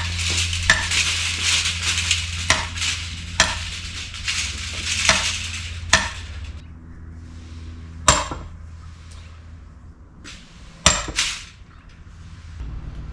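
Chainsaw biting into an oak log with a sharp chain. The hiss of cutting is loudest for about the first six seconds, then the saw runs on more lightly, with sharp knocks scattered throughout.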